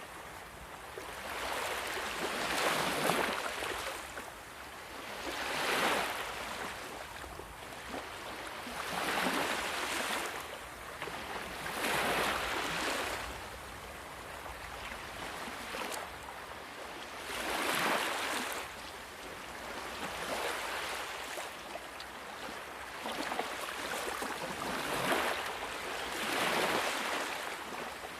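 Ocean waves breaking and washing in, a surge of surf swelling and fading every few seconds.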